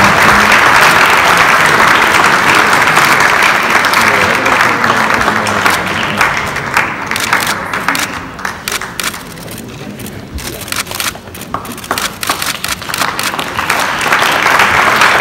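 Large audience applauding; the applause thins to scattered separate claps about halfway through, then builds up again near the end.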